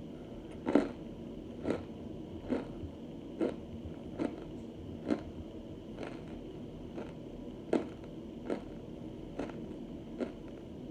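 Close-miked chewing of hard starch chunks, with a sharp crunch about once a second.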